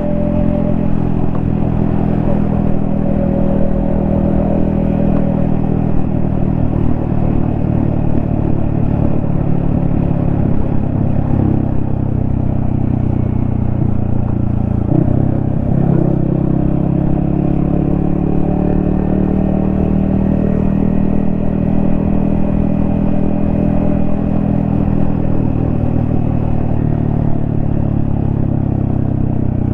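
Yamaha XSR155's single-cylinder engine running on the move, its pitch rising and falling as the revs change, with a brief dip about halfway through and a falling note near the end.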